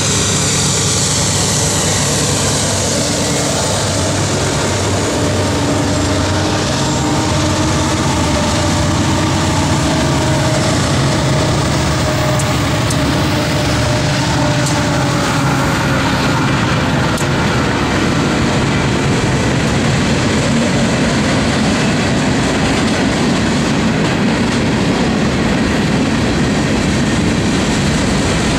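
Freight train passing close by. Several diesel locomotives under power go past first, exhaust smoking, then a long string of covered hopper cars rolls by with a steady rumble of wheels on rail. A faint tone slides slowly downward partway through.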